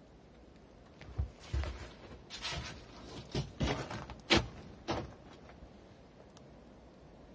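Footsteps on wet forest ground: about eight irregular steps, each a soft thud with a rustle, over about four seconds starting a second in.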